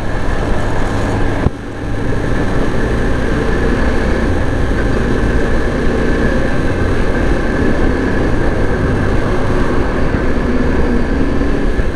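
Yezdi Adventure's single-cylinder engine running steadily under way at highway speed, mixed with a steady rush of wind. The level drops briefly about a second and a half in.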